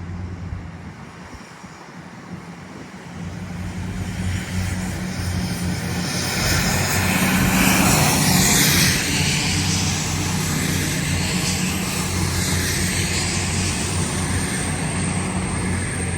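A train passing, its noise building from a few seconds in to a peak about halfway and then holding, over a steady low engine hum.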